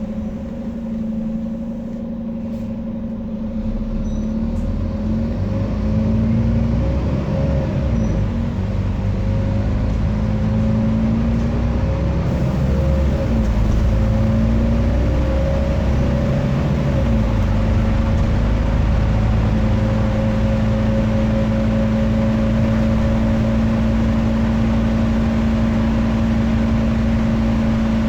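Scania N230UD double-decker bus engine working hard under acceleration, with a steady whine over a heavy rumble. The engine gets louder over the first several seconds, its note shifts as the bus gathers speed, and then it holds steady.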